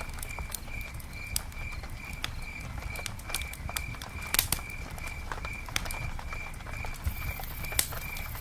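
Campfire crackling, with irregular sharp pops over a steady low rumble. An insect chirps evenly throughout, about three chirps a second.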